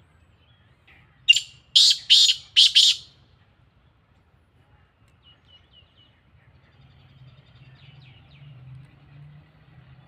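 Black francolin (kala teetar) calling: a loud call of about five quick, harsh notes starting about a second in, followed later by a few faint chirps.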